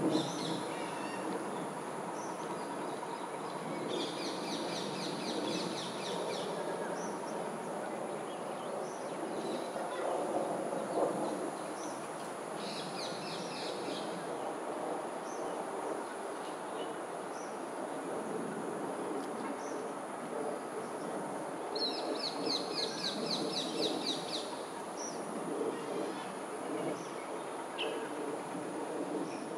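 A bird's rapid trilled call, a quick run of high notes lasting about two seconds, heard three times over a steady low background noise.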